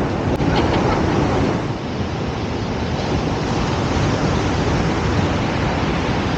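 Ocean surf breaking, with wind buffeting the microphone: a steady rushing noise that eases a little about two seconds in.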